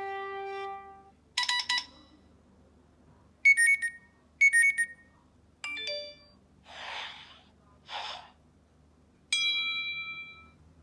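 A string of iOS 7 iPhone alert tones played one after another: a short chime, two high two-note beeps, a quick cluster of falling tones, two whooshes, and a final bright chime that rings out and fades.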